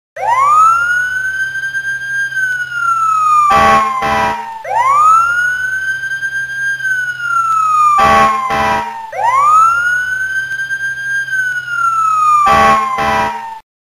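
Electronic warning siren sounding three cycles. Each cycle rises quickly to a high pitch, holds, then slides down, and two short stuttering blasts come near the end of each one.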